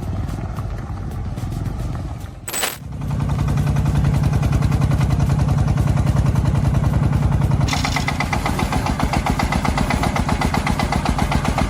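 A heavy vehicle's diesel engine running hard with a rapid, even chugging. There is a brief break about two and a half seconds in, after which it comes back louder and deeper, and it turns harsher about eight seconds in.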